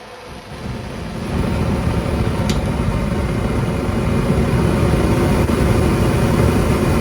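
Newly built naturally aspirated propane burner lit and running: a steady low rumble with hiss that swells over the first second or so and then holds. A faint click about two and a half seconds in.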